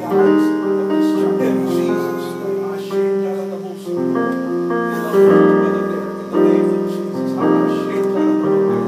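Piano playing slow sustained chords, a new chord struck about once a second and left to ring.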